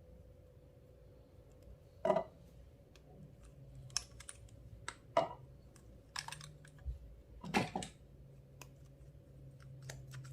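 Clear slime being worked by hand, giving scattered sticky clicks and pops.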